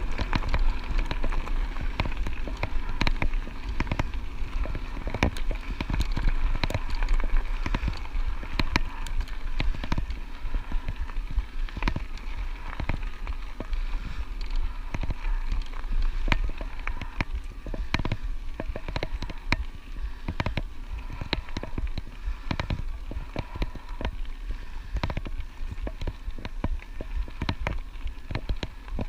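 Electric bike tyres rolling over a chunky gravel track: a dense, irregular crackle and rattle of loose stones under the wheels, over a steady low rumble.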